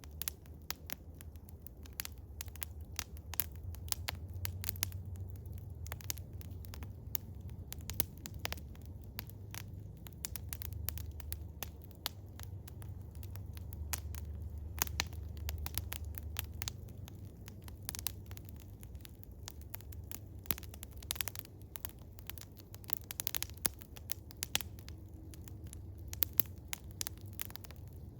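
Wood fire of eastern hemlock crackling, with frequent irregular sharp snaps and pops over a low steady rumble.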